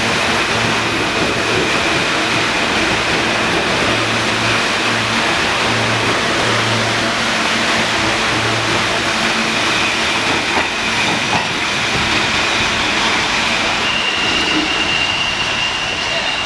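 R160 subway train moving along the platform, a loud steady rumble of wheels and motors with a high steady whine near the start and again near the end.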